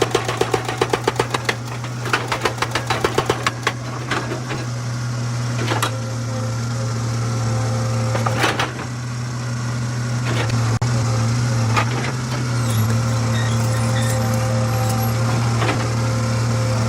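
Excavator's diesel engine running steadily under load, with a fast rhythmic clatter of about five to six knocks a second for the first few seconds, then a few single sharp knocks of steel on rock spread through the rest.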